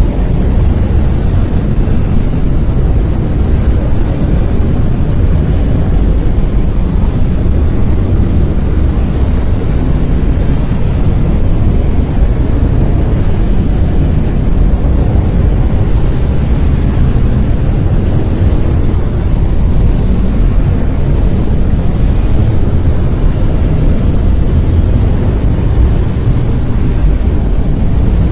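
Brown noise: a loud, steady, deep rumbling hiss with most of its energy in the bass, unchanging throughout.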